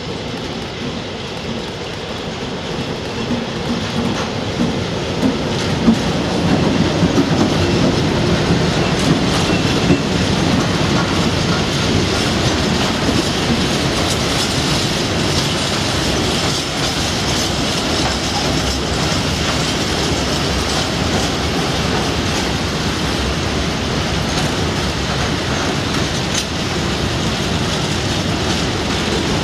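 Class 60 diesel locomotive 60044, its eight-cylinder Mirrlees engine running, grows louder over the first several seconds as it draws near and passes at the head of a heavy freight train. It is followed by a long, steady run of loaded freight wagons rumbling over the track, with repeated wheel clicks.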